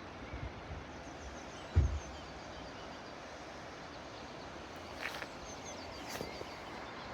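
Small birds chirping in short high series over a steady rushing background noise, with one low thump about two seconds in.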